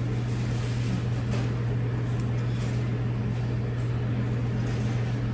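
A steady low mechanical hum, unchanging throughout, with a few faint small clicks over it.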